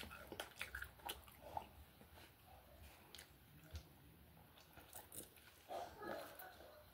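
Faint eating and drinking mouth sounds: small scattered chewing clicks, then sipping a soft drink through a plastic straw from a large foam cup.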